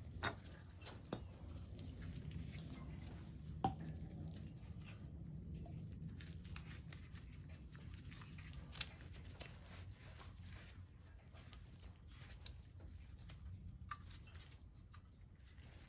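Scattered faint clicks and knocks of tools and fittings being handled while connecting a water heater's gas line, over a low steady hum.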